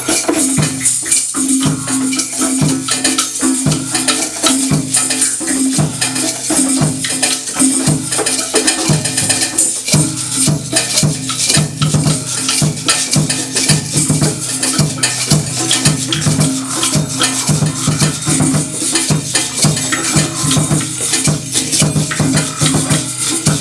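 Percussion ensemble playing a steady groove: pitched drum strokes under a constant shaker and tambourine hiss. The drum strokes come closer together after about ten seconds.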